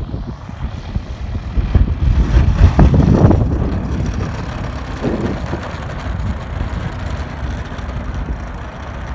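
DLE-55 single-cylinder two-stroke gasoline engine of an RC model airplane running at low throttle. It swells louder about two seconds in, then settles back to a steady run.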